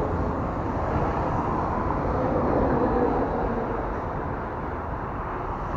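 Steady road noise of a bicycle being ridden on pavement, tyres rolling with air rushing past the microphone, swelling a little in the middle.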